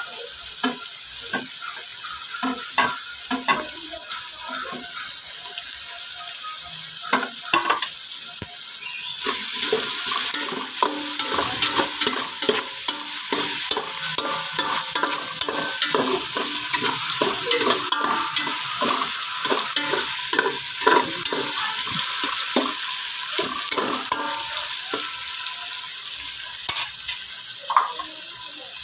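Diced meat sizzling in hot oil in an aluminium pot. The sizzle grows louder about nine seconds in, while a spoon stirs the sauté and scrapes and knocks against the pot many times.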